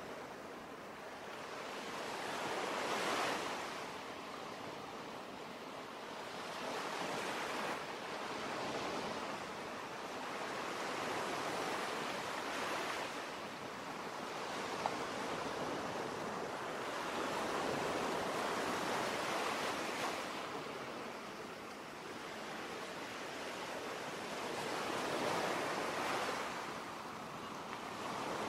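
Ocean surf: waves washing in and drawing back, swelling and fading every four to five seconds.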